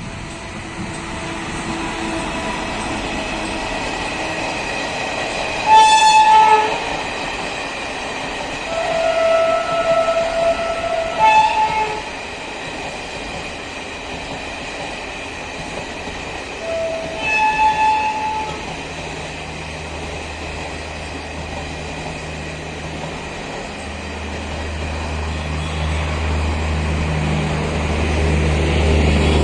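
Railway locomotive horn sounded several times over the steady running rumble of a train: a short blast about six seconds in, a longer held note around nine to ten seconds, then short blasts near eleven and seventeen seconds. A low hum builds over the last ten seconds.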